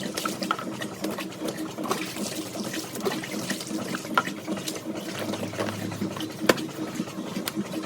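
Water running and splashing, with many small splashes over a steady low hum and one sharp knock about six and a half seconds in.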